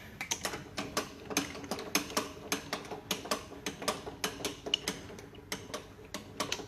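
Metal tooling being handled at a milling machine: irregular sharp clicks and clinks, several a second, as steel parts knock against each other.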